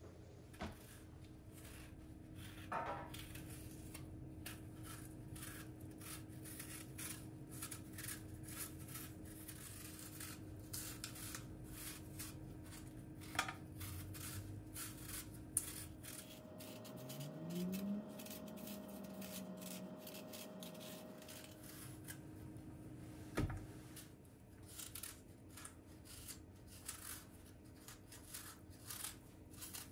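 Small kitchen handling noises: a run of light clicks, taps and rubs of utensils and dishes over a low steady hum. About halfway through, a short rising whine levels off and holds for a few seconds before stopping.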